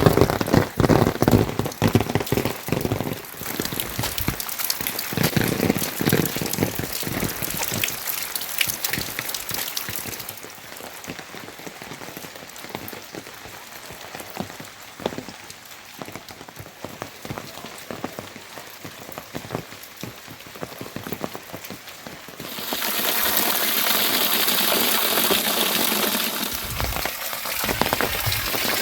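Rain falling, with many separate drop hits in the first few seconds. About three-quarters of the way in, a louder, steadier rush of rain takes over.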